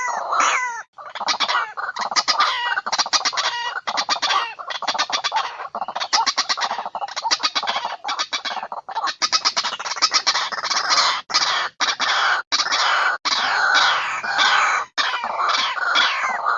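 White-breasted waterhen calling: fast runs of harsh, rapidly repeated notes, broken by a few short pauses, with falling swept notes at the start and again near the end.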